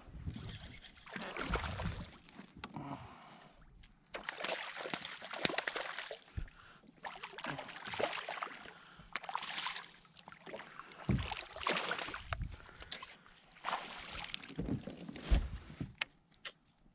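Kayak paddle strokes in water: repeated swishing splashes every second or two.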